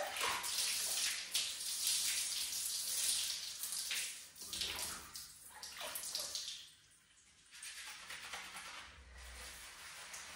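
Running tap water splashing while hair is being washed. The water dies away briefly about seven seconds in, then comes back fainter.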